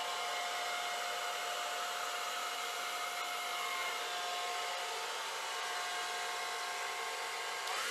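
Handheld blow dryer running steadily: a rush of air with a steady whine from its fan motor.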